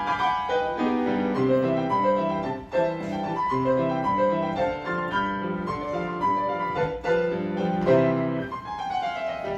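Piano playing an instrumental interlude on its own between sung verses, a lively tune of short, clearly separated notes over a bass line.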